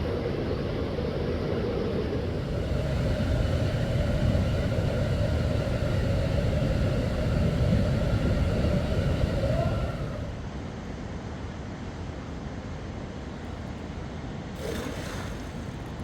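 A motor running with a steady whine and a low rumble; the whine rises slightly and stops about ten seconds in. A quieter steady rushing noise carries on after it.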